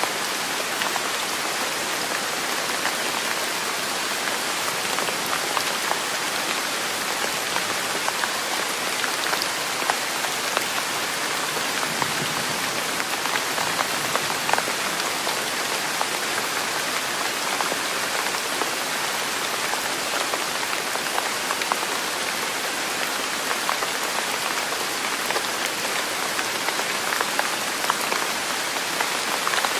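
Steady rain falling on a surface, a dense even patter of many small drop ticks.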